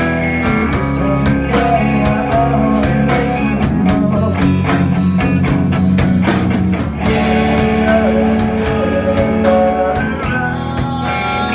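Rock band playing: guitars over bass and drums, with steady cymbal and drum hits and a brief dip about seven seconds in.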